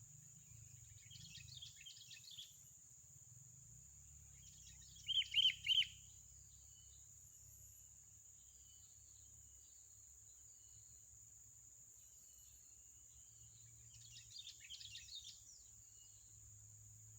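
Small birds calling in short chirpy phrases, with a louder call of three quick notes about five seconds in and soft chirps between. A steady high-pitched hum runs underneath throughout.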